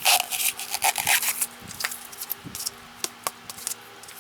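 Hands handling a styrofoam box, with rustling and scraping for the first second and a half, then a few light clicks and taps over a faint steady hum.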